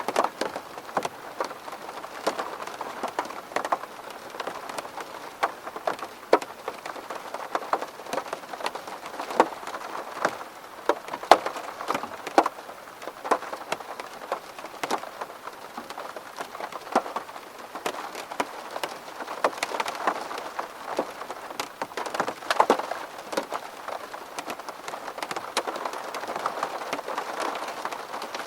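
Rain falling on window glass: a dense, steady patter with many sharp individual drop hits, irregular and several a second.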